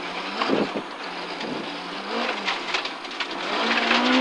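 The Ford Escort RS's BDG four-cylinder rally engine, heard from inside the car, runs at fairly low revs while slowing through a hairpin, with gravel clicking under the car. The revs rise in the last second as it pulls out.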